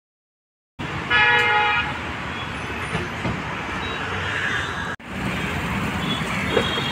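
Road traffic noise with a vehicle horn honking once, briefly, about a second in. The sound starts abruptly after a second of dead silence and cuts out for an instant about five seconds in.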